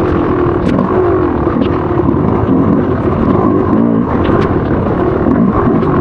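Motocross bike engine running under race throttle, its pitch rising and falling as the rider rolls on and off, over a steady rush of noise, with occasional sharp ticks.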